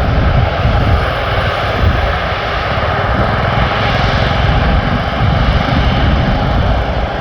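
Airbus A330-200 jet airliner's engines running as it taxis, a loud steady rumble and hiss.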